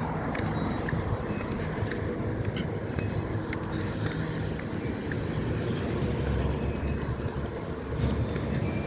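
Diesel engine of an EMD GP-series road switcher locomotive running steadily as it backs a cut of cars, with the low rumble of the train rolling.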